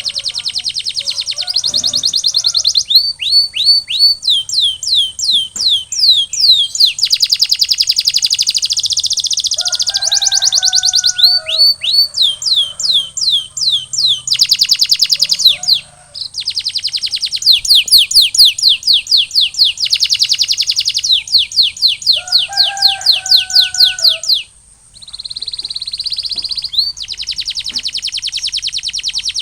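Male domestic canary singing long, fast rolls of repeated high, downward-sweeping notes, the tempo changing from phrase to phrase, with brief pauses about halfway through and near the end.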